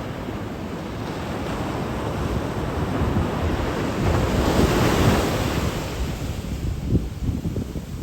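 Sea waves surging in, swelling to a loud crash about five seconds in and then washing back, with wind buffeting the microphone.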